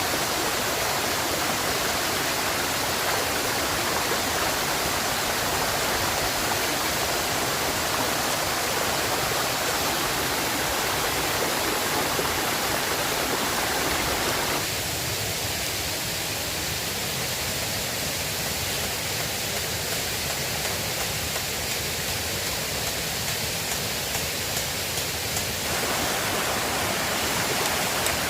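River water rushing steadily in a continuous roar of noise. About halfway through the sound turns abruptly thinner in the middle range for about eleven seconds, then returns to its fuller roar.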